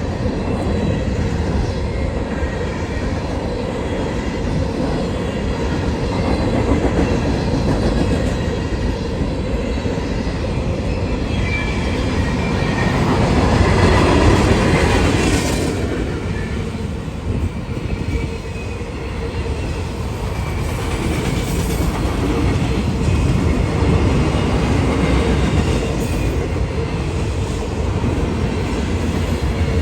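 CSX autorack freight cars rolling past: a steady rumble and clatter of steel wheels on rail, swelling to its loudest about halfway through, with a faint thin wheel squeal over it.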